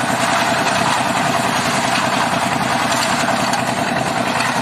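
Engine of construction machinery for mixing concrete running steadily, with a fast, even firing pulse.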